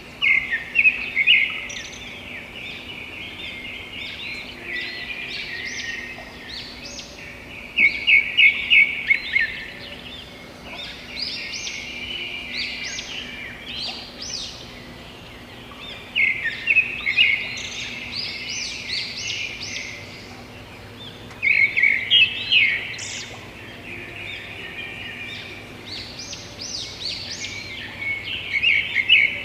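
A songbird singing: bursts of rapid, high chirping notes in phrases that come back every few seconds, over a faint steady background.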